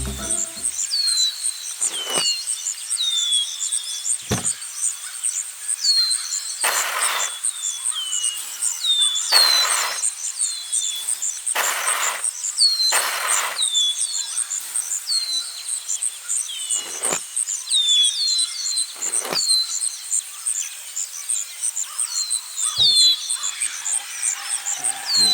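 Outdoor insect drone, a steady high pulsing, with many short high falling chirps at irregular times and several brief rustling swishes, the loudest in the middle.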